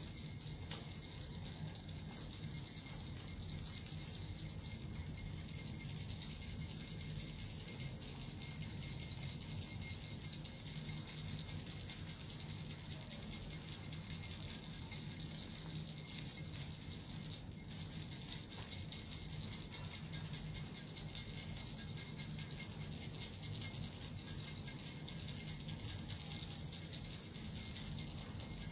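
Suzu bells and a metal rattle shaken continuously: a dense, steady jingling with high ringing tones held underneath.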